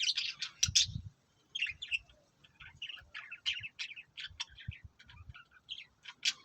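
Small birds chirping: a rapid, irregular run of short high chirps, densest in the first second, with a few soft low knocks underneath.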